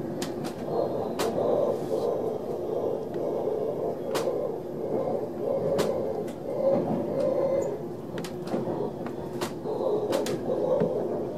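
Ride noise inside an ÖBB Railjet passenger coach under way: a steady rumble of wheels on rail, broken by sharp clicks and knocks at irregular intervals.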